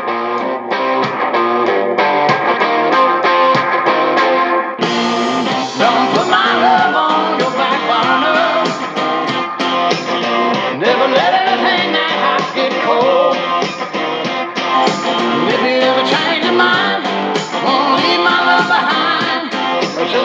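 Guitar-driven rock song played through a 6.5-inch car audio speaker, high-passed at 80 Hz so there is no deep bass. About five seconds in, the full band comes in and the sound gets brighter and fuller.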